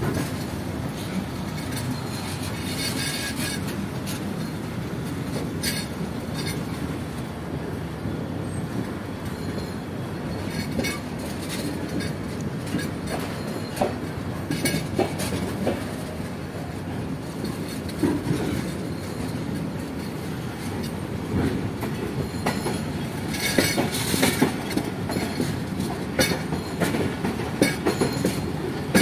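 A train running on the rails, heard from on board: a steady rumble with irregular clacks of the wheels over rail joints. Brighter high-pitched noise comes in twice, a few seconds in and again near the end.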